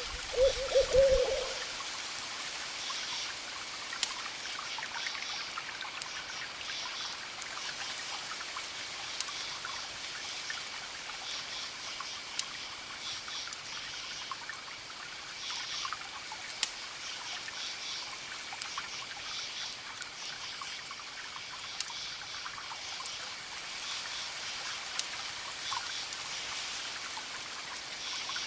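Campfire crackling with sharp pops over a steady hiss of distant ocean waves, with crickets chirping in short repeated pulses and a steady high insect trill. A short low hoot right at the start.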